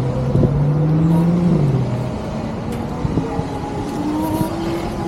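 Road traffic as the light turns green: a vehicle engine accelerating away, its pitch rising and then falling off about two seconds in. A second, higher tone climbs slowly after it.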